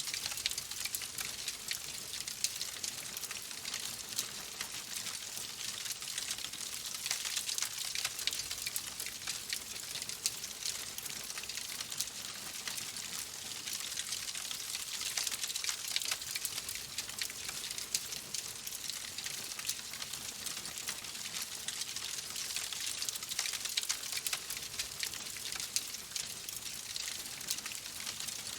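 Wood fire crackling steadily in a fireplace: a constant hiss packed with many small sharp pops and snaps.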